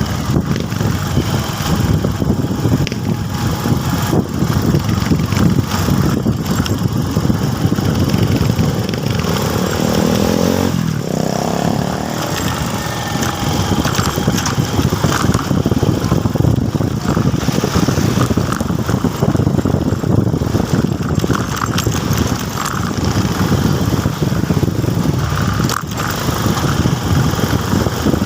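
Motorcycle engine running steadily while riding, with road rumble; about ten seconds in its pitch briefly glides.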